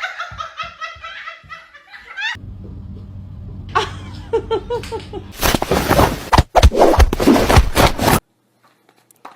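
A person laughing in quick repeated bursts. After a cut there is a steady low hum with short high calls over it, then a loud, rough burst of noise lasting nearly three seconds that cuts off suddenly.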